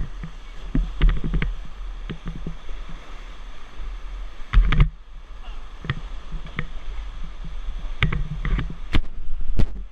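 River rafting on fast water: rushing water around the raft with irregular splashes and knocks, the loudest about halfway through and a cluster near the end, over a low steady rumble.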